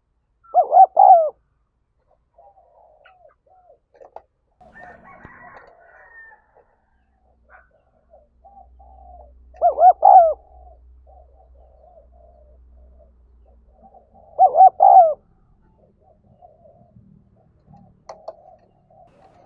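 Spotted dove cooing its calling song: three loud phrases of a few quick notes, about a second, ten seconds and fifteen seconds in, with fainter cooing between them.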